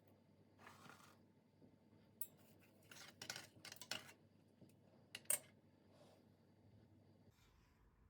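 A soft rustle, then a run of small, sharp clicks and clinks of objects being handled, the sharpest a little past five seconds in.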